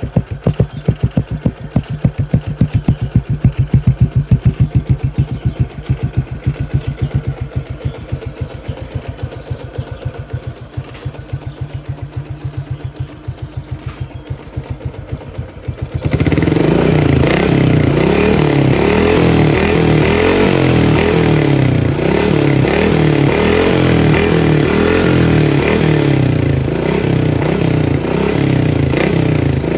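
Yamaha MX 135 single-cylinder four-stroke motorcycle engine breathing through a Thai 'Fu' aftermarket exhaust, with a very crisp note. For the first half it idles with distinct, evenly spaced exhaust pulses. About halfway through it turns suddenly louder and faster, the revs rising and falling over and over as the throttle is blipped.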